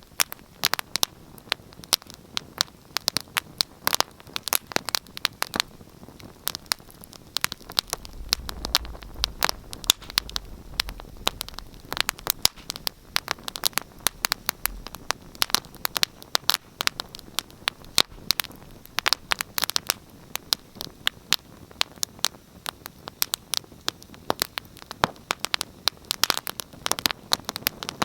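Wood fire burning in a fireplace, crackling with a dense, irregular stream of sharp pops and snaps. A low rumble comes in about eight seconds in and fades out about seven seconds later.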